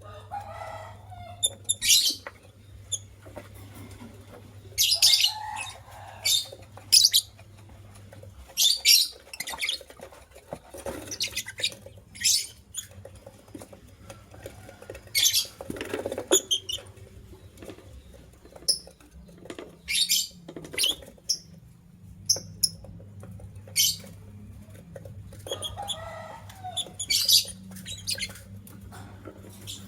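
White lovebirds chirping: short, sharp, high-pitched calls repeated every second or two, over a faint low hum.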